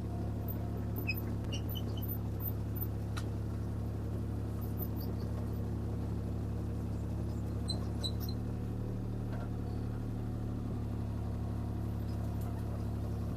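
CAT 303C CR mini excavator's diesel engine running steadily as the machine is turned, with a few faint, short high squeaks.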